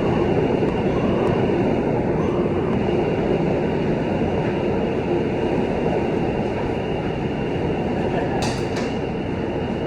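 New York City subway car heard from inside while running: a steady rumble and rushing noise of wheels on rail, with a brief high-pitched scrape near the end.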